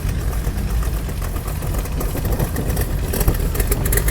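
Classic cars driving slowly past at low speed, their engines running with a steady low rumble.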